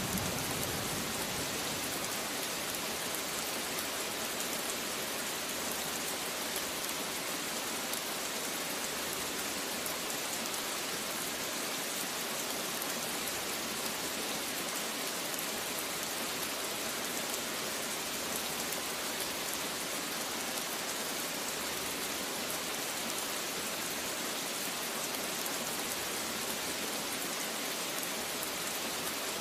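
Steady rain falling on a surface: an even hiss of many drops, unchanging in level.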